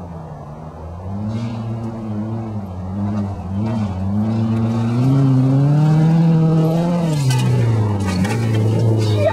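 Nissan 240SX's KA24DE four-cylinder engine revving up and down as the car drifts across grass, getting louder as it comes closer. The revs climb to a peak about six to seven seconds in and then drop, with sharp crackles near the end.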